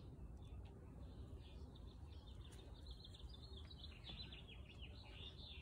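Faint background rumble with small birds chirping faintly in the distance, a quick run of short chirps starting about two seconds in.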